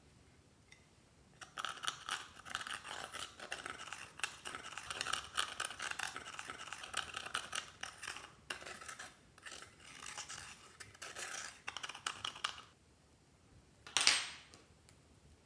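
Clear slime being worked by hand, a dense run of small sticky clicks and crackles that stops near the end. One short, louder rush follows a moment later.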